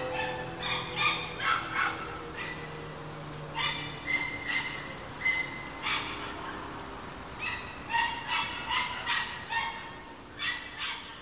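Birds giving short, harsh calls in repeated clusters, over the faint tail of an ASC RM-135 rotating siren winding down at the end of its Alert signal. The siren's low tone fades out a few seconds in.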